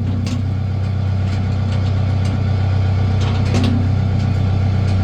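A vehicle engine running steadily at low revs, its even hum holding throughout, with a few faint clicks on top.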